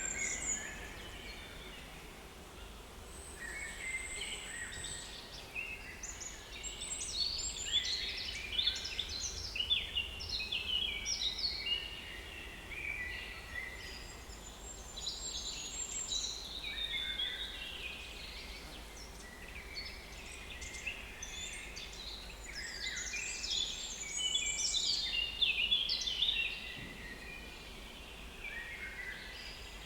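Several small woodland songbirds singing over one another in a dawn-to-midday chorus of chirps and trills, thinning out in short lulls.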